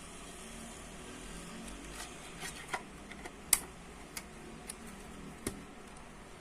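A handful of short, sharp clicks and taps of small hard parts being handled, scattered over a few seconds, the loudest about three and a half seconds in, over a faint steady background hum.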